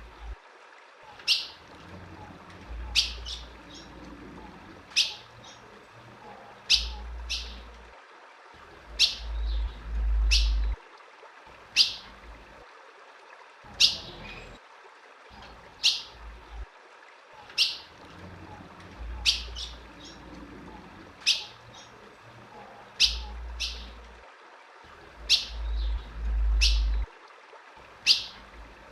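Female ultramarine grosbeak (azulão) giving short, sharp single chip calls, one every second or two. Low rumbles come and go underneath, two of them louder.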